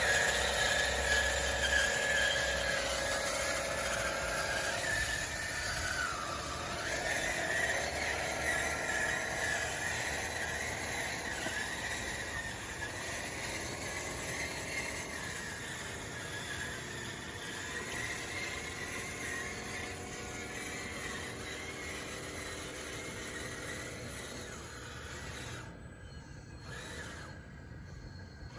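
Radio-controlled bulldozer's electric drive motors and gearboxes whining as it pushes dirt, the pitch dipping and rising with the load and the sound slowly fading.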